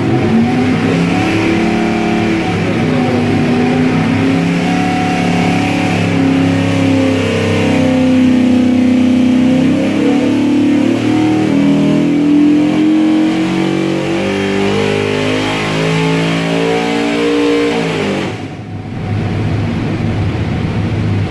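363 cubic-inch small-block Ford stroker V8 with Holley multi-point fuel injection making a wide-open-throttle pull on an engine dyno: the engine note climbs steadily in pitch as the revs rise under load for about eighteen seconds. The throttle then snaps shut and the engine drops back to a lower, quieter run.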